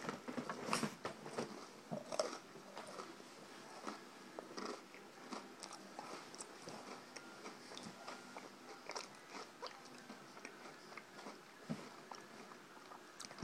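A person biting and chewing a milk-dunked Red Velvet Oreo: soft wet mouth clicks and crunches, the louder bites in the first couple of seconds, then quieter chewing.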